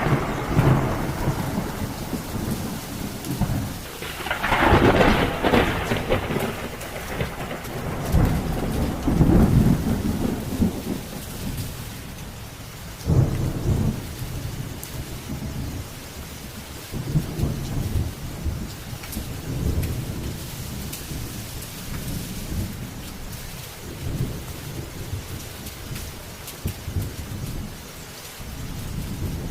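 Heavy rain falling steadily, with several long low rolls of thunder; the loudest comes about four to six seconds in, with further rolls around nine and thirteen seconds.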